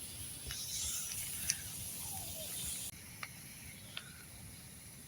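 Wood campfire burning quietly, with a faint hiss and a few sharp crackling pops.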